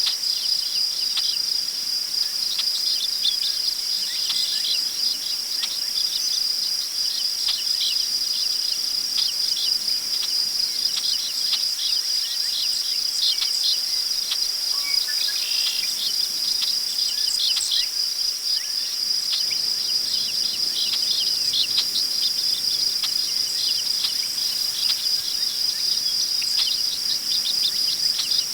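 Crickets trilling in one steady, high, unbroken tone, with many short bird chirps scattered over it.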